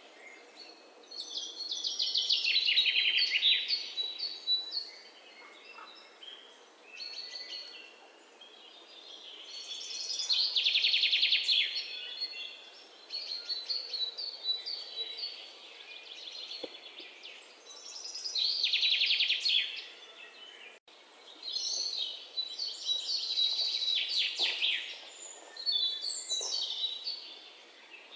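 Songbirds singing: a loud, fast trilling song phrase comes back roughly every eight seconds, with softer chirps and twitters in between.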